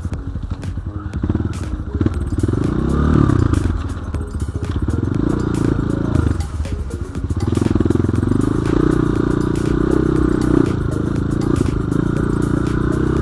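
BSE J1 enduro motorcycle engine running as it is ridden off-road, revving up and easing off again and again, with frequent knocks and clatter from the bike over rough ground.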